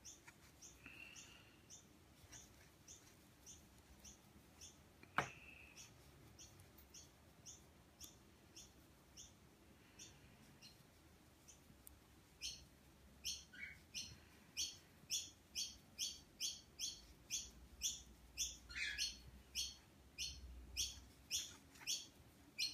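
A bird chirping over and over, with short high notes about two a second that grow louder and quicker about halfway through. A couple of lower calls fall in pitch among them. A single sharp click sounds about five seconds in.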